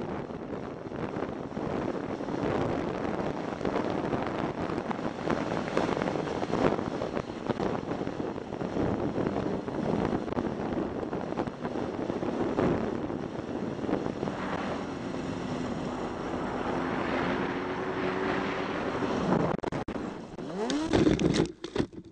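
Motorcycle engine running under heavy wind noise on the rider's microphone, its pitch rising and falling with the throttle. Near the end comes a burst of loud, jumbled noise as the motorcycle crashes, and then the sound cuts off suddenly.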